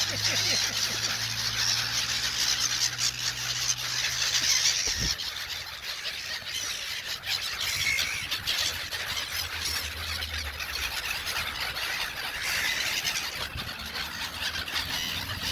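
A flock of gulls calling over one another in a dense, continuous chorus of high squeals and cries.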